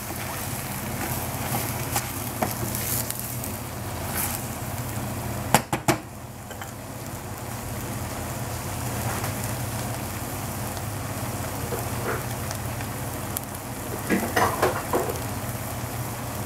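Shredded cabbage and capsicum sizzling steadily as they stir-fry in a stainless steel saucepan, stirred with a wooden spatula at first. There are two sharp knocks about five and a half seconds in and a few small clatters near the end.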